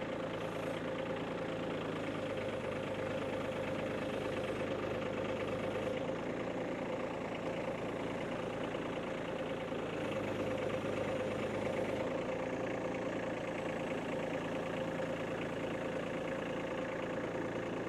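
Kubota compact tractor's diesel engine running at a steady speed, with a constant hum.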